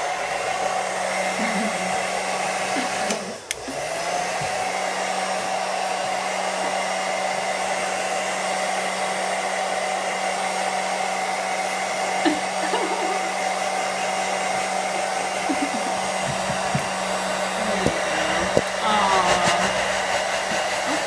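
Handheld blow dryer running steadily with a high whine. About three seconds in, its pitch and level drop briefly, then come back up.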